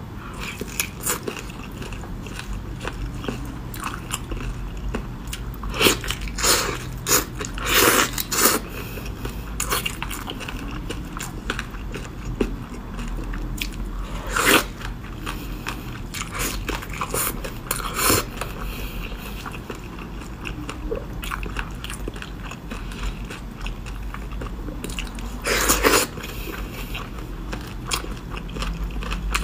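Close-miked biting and chewing of braised fish, with wet clicking mouth sounds that come in several louder bursts.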